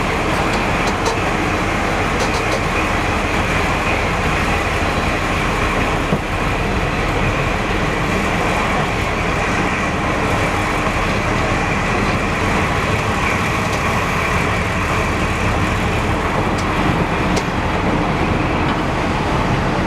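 Prototype HST power car 41001's diesel train running steadily, a continuous even noise of engine and rolling wheels with a few light clicks.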